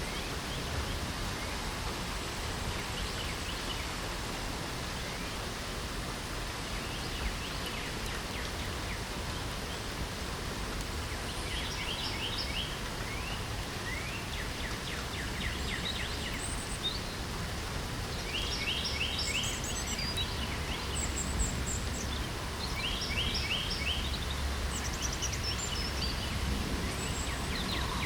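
Steady hiss of light rain with birds singing over it: bursts of quick, repeated trilled notes, a few high chirps among them, coming more often in the second half.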